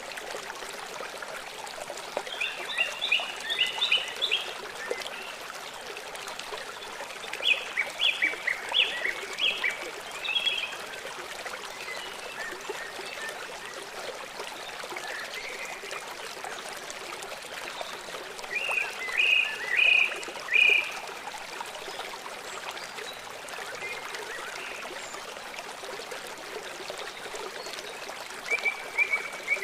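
Small songbirds singing short bursts of quick chirping notes, four separate phrases of about two to three seconds each, over the steady rush of running water.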